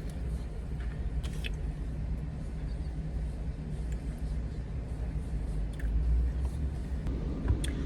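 Steady low rumble of a car running, heard from inside the cabin, with a few light clicks.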